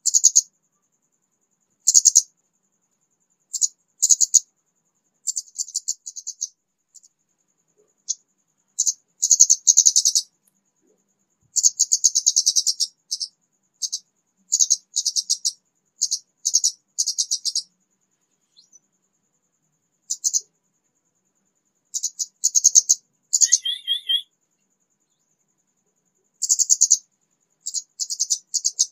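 Orange-headed thrush (kemade) singing in short, high, scratchy bursts of rapid notes, repeated every second or two with silent gaps between, and one lower clear whistled phrase about three-quarters through. This is the early song of an untrained bird that has just started to sing.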